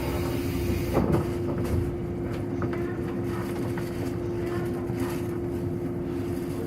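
Running sound inside a JR 185-series electric multiple unit as it nears a station stop. Wheels rumble on the rail under a steady hum, with a few short clicks, the clearest about a second in.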